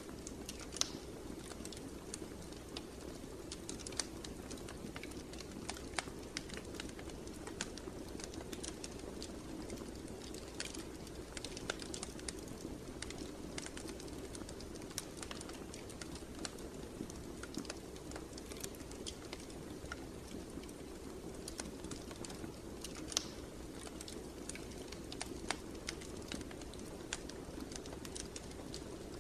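Fire in a fireplace crackling: irregular sharp pops and snaps over a steady low rush of flames.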